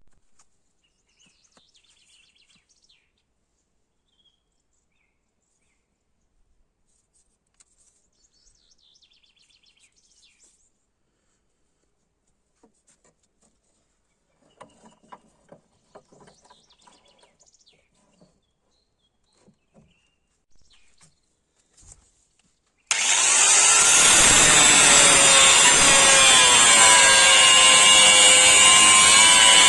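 A power tool starts abruptly about three-quarters of the way in and runs loud and steady, its whine wavering up and down as it works the steel of a chainsaw bar. Before it there are only faint high chirps and a few light clicks and taps.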